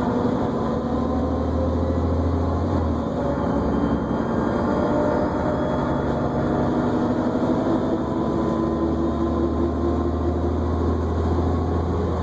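New Flyer D40LFR diesel transit bus heard from inside the cabin while under way: a steady low engine drone with a whine that climbs slowly in pitch.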